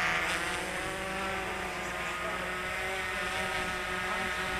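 Electric motor and propeller whine of a radio-controlled aircraft in flight: a steady multi-tone buzz that eases a little in the first half-second, then holds.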